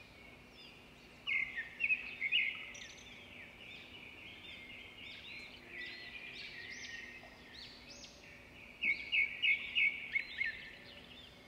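Birds chirping and singing, with short high calls throughout and two louder runs of quick repeated notes, one soon after the start and one near the end.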